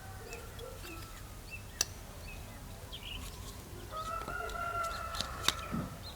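A rooster crowing once, a long call starting about four seconds in. Two sharp clicks, one near two seconds in and a louder one near the end.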